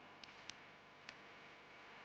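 Three faint, short, high clicks over a low steady hiss, the last about half a second after the first two.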